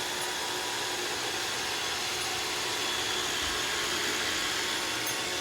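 iRobot Roomba 692 robot vacuum running, a steady whir with a faint high whine held through it.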